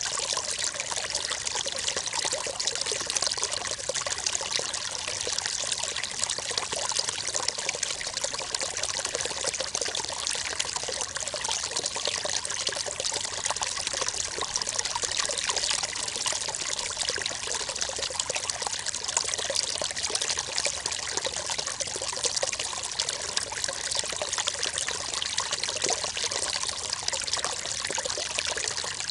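River water flowing and trickling steadily over stones, a continuous splashing babble with no pauses.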